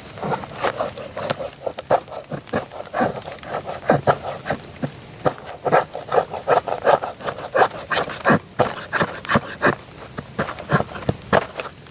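A knife carving wood with many short, irregular scraping strokes, roughly two to three a second.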